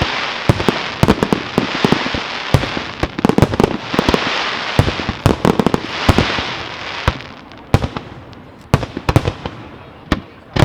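Fireworks display: many sharp shell bursts over a continuous crackle. After about seven seconds it thins to a few separate bangs.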